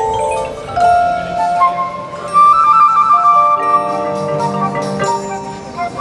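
Marching band music, with mallet percussion (marimba, xylophone, glockenspiel) playing alongside sustained melodic lines.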